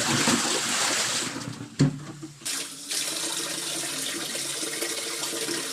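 Water from a tap splashing and running into a basin to rinse hand-washed laundry, with a single knock about two seconds in, then a steady flow.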